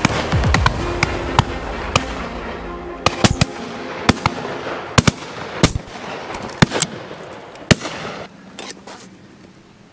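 Shotguns firing irregularly along a line of guns at driven pheasants, about a dozen shots of varying loudness, some close and some distant, thinning out toward the end. Background music runs under the first few seconds, then fades out.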